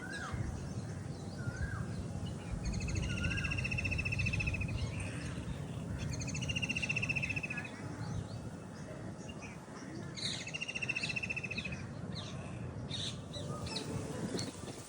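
Birds singing in a park: a repeated rapid trill, each phrase lasting about two seconds and coming back every few seconds, with shorter chirps between. A steady low rumble of background noise runs underneath.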